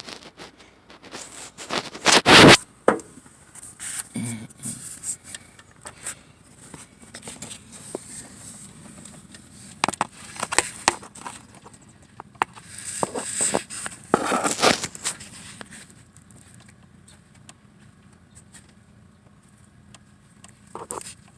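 Irregular scrapes, clicks and knocks, loudest about two seconds in and again around fourteen seconds in.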